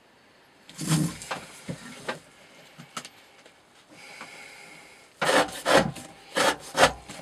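Knife blade cutting through rope in short noisy strokes: a few about a second in, then a quick run of about six near the end.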